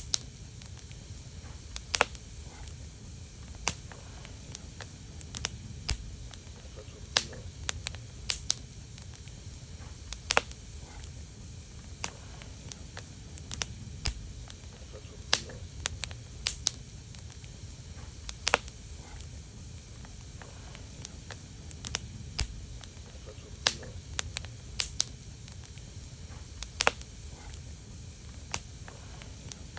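Fire burning in a fireplace: a steady low rumble of flames with irregular sharp crackles and pops, about one to a few a second.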